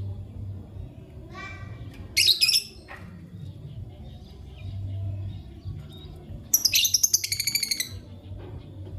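Lovebird chirping: a short call, then a loud shrill chirp a couple of seconds in, and near the end a fast run of loud chirps lasting just over a second. A steady low hum sits underneath.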